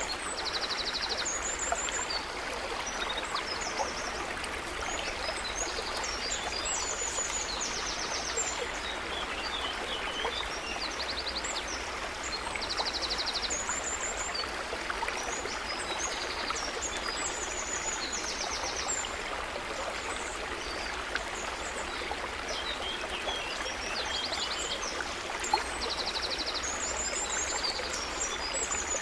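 Stream water running steadily, with birds singing over it: short high rapid trills and chirps every few seconds.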